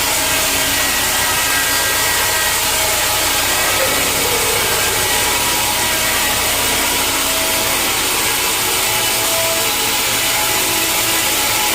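Sawmill saw cutting through a log of mahogany, a steady unbroken sawing hiss with a faint shifting whine.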